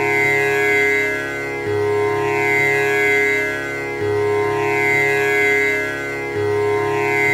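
Tanpura drone: its strings plucked one after another in an unbroken repeating cycle, the pattern starting over about every two and a third seconds, each note ringing on under the next.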